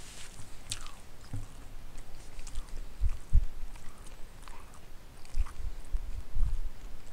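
A person chewing a mouthful of pot roast, carrots and potatoes close to the microphone, with small wet mouth clicks and irregular low thumps. The loudest thumps come about three seconds in and again near the end.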